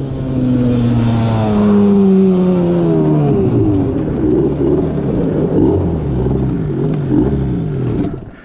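Yamaha Banshee two-stroke twin with a Cheetah 426 big bore kit being ridden. Its engine note falls over the first few seconds, then revs up and down quickly again and again, dropping off near the end.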